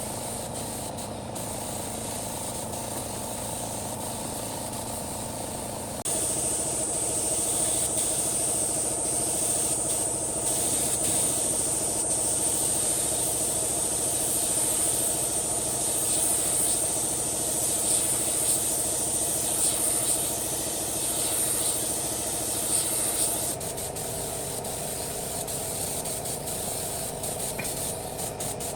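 A motor runs steadily under a loud spray hiss that starts suddenly about six seconds in and cuts off a little before the end.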